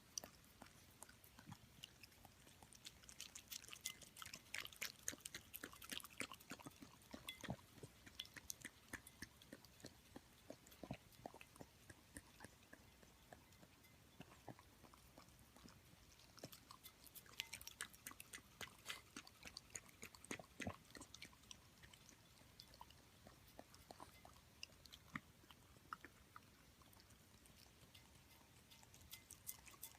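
Shiba Inu puppy eating noodle soup: quiet chewing and mouth clicks, coming in clusters a few seconds in and again after the middle.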